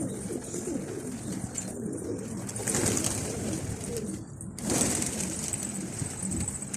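Pigeons cooing steadily, with two louder rushing bursts about three and five seconds in.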